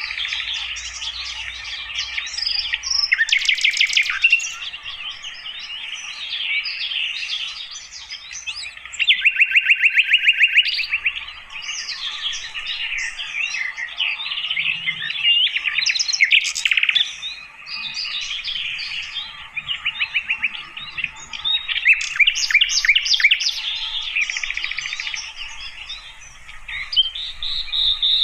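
Sikatan londo (an Indonesian flycatcher) singing a long, varied song of quick chirps and whistles broken by fast rattling trills, without pause.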